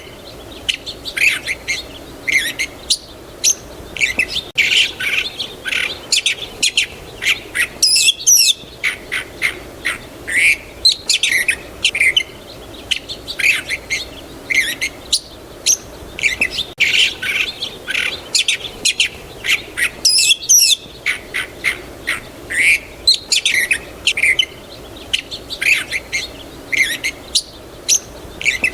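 Many songbirds chirping and calling, with dense overlapping short chirps and trills several times a second over a faint steady background.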